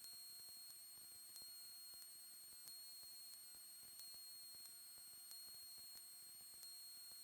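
Near silence: a faint steady high-pitched electrical whine with a faint tick about every two-thirds of a second, the electrical noise floor of the recording.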